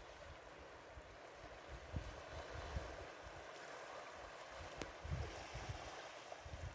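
Outdoor ambience: a steady rushing noise, with irregular low rumbles of wind buffeting the microphone and a single sharp click near five seconds in.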